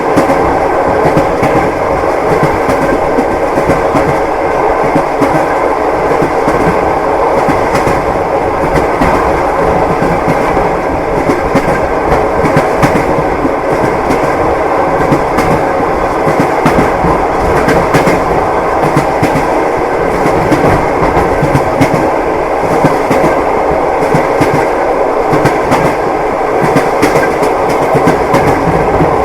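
Train wheels clattering over the rail joints, with the steady rumble of the moving carriage underneath.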